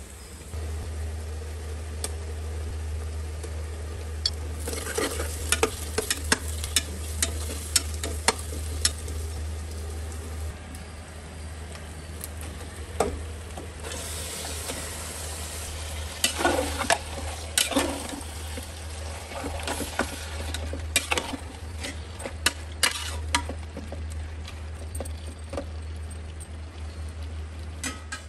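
Onions, green chillies and spices frying in oil in a pressure cooker, stirred with a metal spoon that clicks and scrapes against the pot. About halfway through, raw mutton pieces are tipped in and the sizzle surges, then more scraping as they are stirred through. A steady low hum runs underneath.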